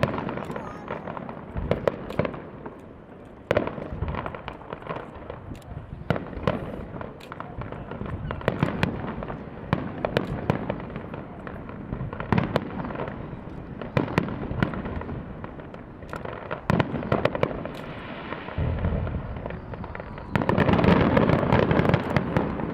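Aerial fireworks bursting in a steady string of sharp bangs and crackles. A louder, denser flurry of bursts comes about two seconds before the end.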